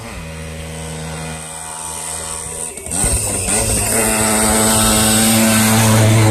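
Jawa 50's small two-stroke single-cylinder engine running hard on a rally stage, steady at first, then changing pitch and getting louder from about three seconds in as the bike comes up the track and passes close by.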